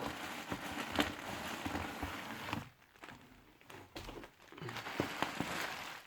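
Packaging being opened and handled: rustling and crinkling with scattered small knocks and clicks, pausing for a couple of seconds midway before the rustling resumes.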